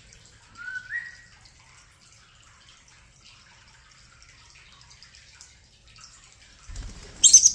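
European starlings: a short rising whistle about a second in, then soft chattering and clicking gurgles, with a louder noisy burst near the end.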